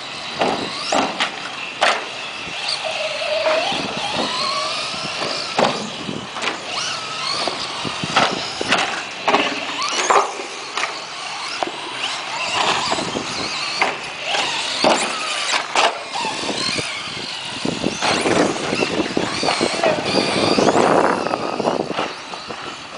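Radio-controlled short-course trucks racing, their motors whining up and down in pitch as they speed up and slow, with many sharp knocks along the way.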